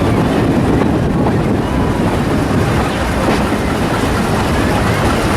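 Train running on the rails: a steady, loud rumble of wheels and running gear.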